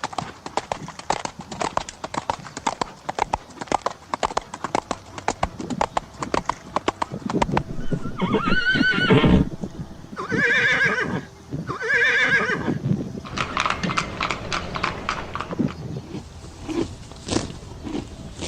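Horse hooves clip-clopping in a rapid, steady rhythm, then a horse whinnies loudly from about eight to thirteen seconds in, a long call that breaks into quavering pieces, before the hoofbeats carry on.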